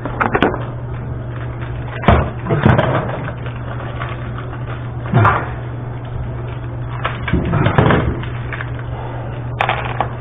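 Several sharp knocks and clatters of objects being handled and set down, spaced a second or more apart, over a steady low hum.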